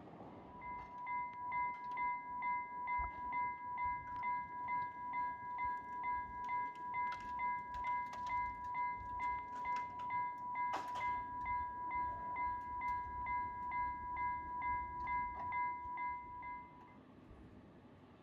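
Railway level crossing warning bell ringing in quick, even strokes, a little over two a second, then stopping about sixteen seconds in. A single knock sounds about eleven seconds in.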